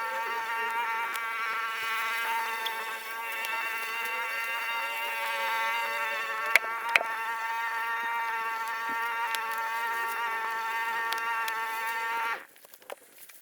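A small motor buzzing at a steady, high pitch, which cuts off suddenly near the end. Two sharp clicks fall about halfway through.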